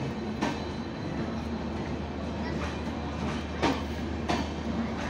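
Passenger coaches of an arriving express train rolling past the platform: a steady rumble of wheels on the track, with a few sharp clacks as wheels pass over rail joints, the loudest a little past halfway.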